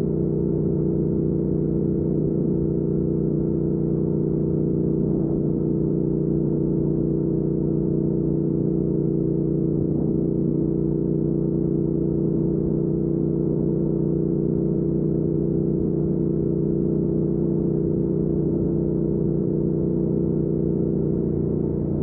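A 2019 Triumph Speed Twin's 1200 cc parallel-twin engine pulling at a steady cruising speed through a Weslake Shorty Pro exhaust. The engine note holds one even pitch throughout.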